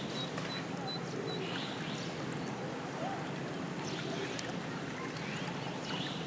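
Short, high peeps of eastern spot-billed duck ducklings, a quick series in the first second and a few more later, over a steady background hiss.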